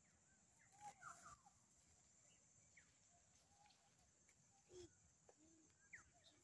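Near silence, with a few faint, scattered bird calls: short chirps near the start, about three seconds in and about six seconds in, and a couple of lower calls about five seconds in.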